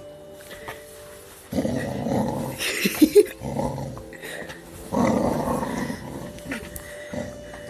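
Pet dog play-growling while tugging in a game of tug-of-war, in two long bouts: the first starts about a second and a half in, the second about five seconds in.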